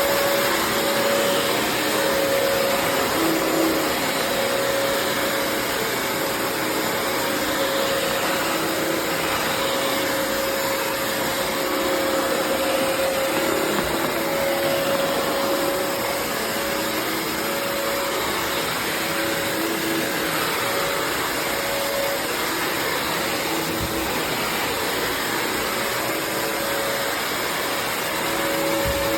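Bissell CrossWave HydroSteam Pet wet-dry vacuum running steadily as it cleans a dirty floor. Its motor gives a steady whine of one pitch over a broad rush of suction air.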